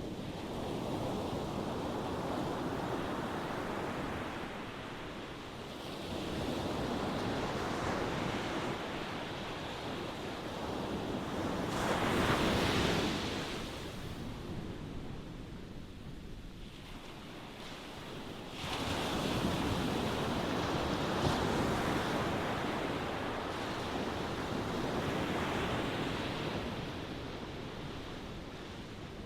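Ocean waves breaking and washing up on shore in slow swells, each building and fading over several seconds; the loudest surge comes about twelve seconds in, another begins near nineteen seconds.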